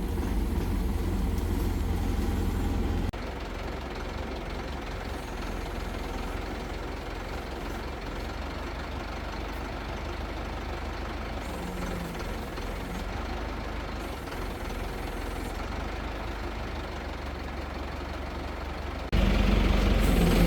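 Heavy engine of a construction crane running steadily. About three seconds in the sound drops abruptly to a lower level, then comes back louder near the end.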